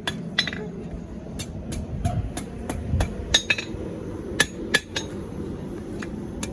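Blacksmith's hand hammer striking steel on an anvil during forging: a series of sharp metallic blows, about two to three a second in an uneven rhythm, some ringing briefly.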